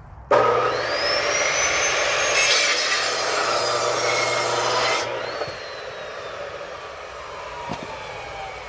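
An electric saw starts with a rising whine and cuts through firewood for about four and a half seconds. It is then let off, and its motor winds down with a slowly falling whine.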